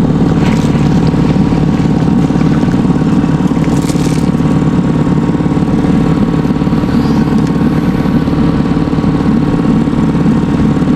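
Boat's outboard motor running steadily at a constant speed while the boat is underway.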